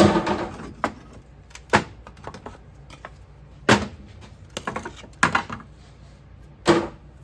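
Scattered sharp knocks and clacks of hard objects being handled and set down, about eight of them at uneven intervals.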